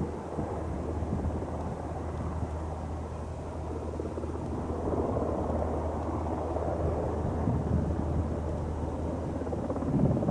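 Beechcraft light propeller plane's engine running with a steady low drone, under gusting wind noise on the microphone.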